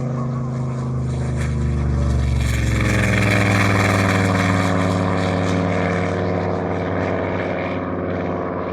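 A tank's engine running and revving up as it moves off. The pitch rises about two seconds in, and the engine then holds steady at higher revs.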